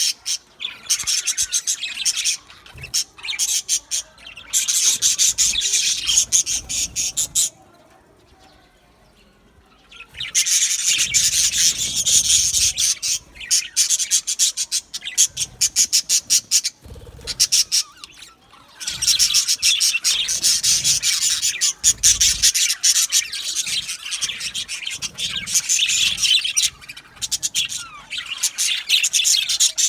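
A flock of budgerigars chirping and warbling in fast, high-pitched chatter, with a quiet pause of about two seconds around eight seconds in.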